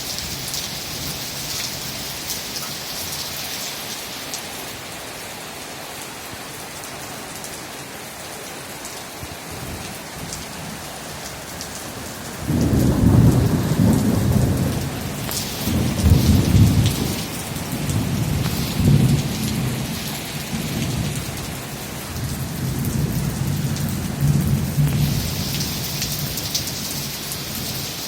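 Heavy rain pouring steadily. About twelve seconds in, thunder breaks in suddenly and rolls on in several heavy surges, dying away over about twelve seconds.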